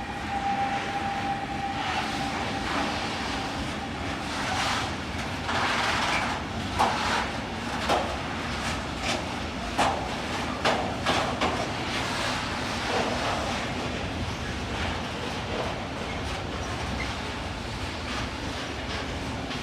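Container freight train rolling by with a steady rumble. A thin high squeal fades out in the first two seconds. Then comes a run of sharp, irregular creaks and clanks from the wagons.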